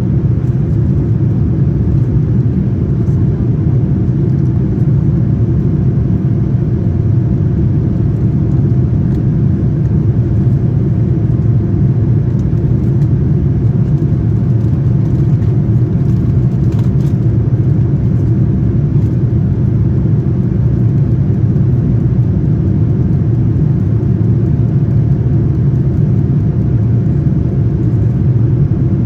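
Steady low rumble of a Boeing 787-9 airliner's engines, heard inside the passenger cabin, with a faint steady hum above it.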